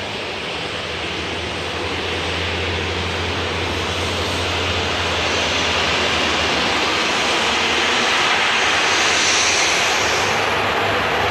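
Small turboprop airplane's engines running at takeoff power for the takeoff from Lukla's short runway, growing steadily louder, with a faint rising high whine near the end.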